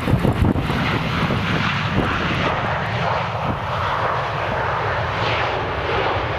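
An airliner's engines passing close by, a steady rushing noise that builds about a second in and eases near the end. Gusty wind buffets the microphone at the start.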